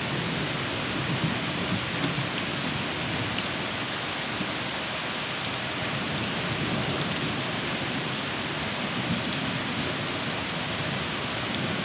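Steady rain falling during a thunderstorm, an even hiss with no distinct thunderclap.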